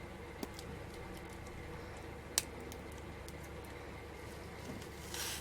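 Faint clicks and light rustling from small craft materials being handled on a tabletop, over a steady low room hum. One sharp click comes about two and a half seconds in, and a brief rustle comes near the end.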